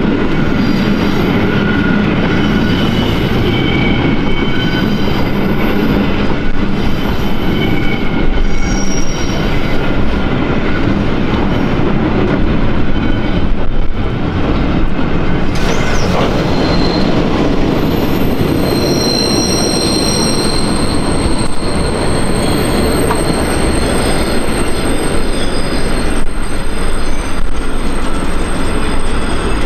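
Slow-moving freight train of flat wagons rolling past, steel wheels on the rails giving a continuous rumble and clatter, with short high squeals from the wheels coming and going. A steady high whine joins in just past the middle.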